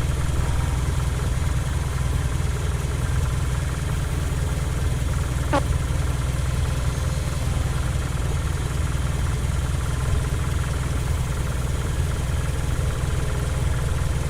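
An engine running steadily at idle, a deep even rumble with vibration.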